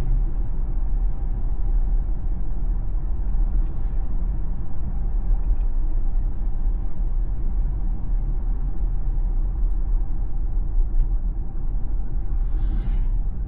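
Steady road and tyre rumble of a Tesla electric car driving, with a brief swell of rushing noise near the end.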